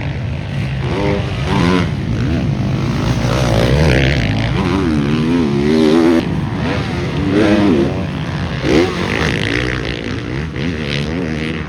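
Motocross dirt bikes running on the track, their engine pitch rising and falling again and again as riders work the throttle, with more than one bike heard at a time.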